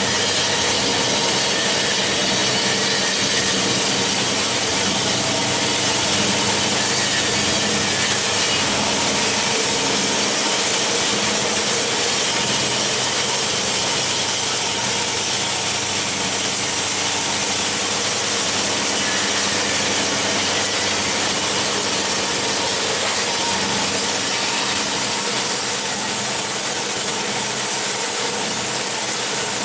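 Machinery of a plastic bottle crushing and washing recycling line running steadily: a constant loud rush of noise with a steady motor hum underneath.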